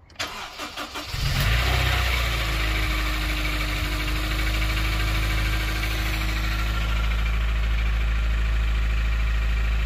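Honda K20A4 four-cylinder engine cranking on the starter briefly, catching about a second in, then idling steadily. The knocking, tapping noise is still there after a valve adjustment; the owner now suspects a rod or something loose in the bottom end.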